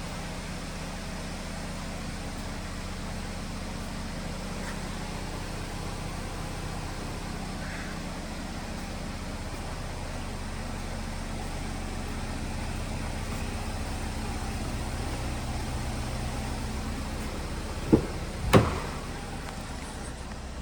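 2015 Chevy Equinox's 2.4-litre four-cylinder engine idling steadily. Two sharp knocks, a fraction of a second apart, near the end.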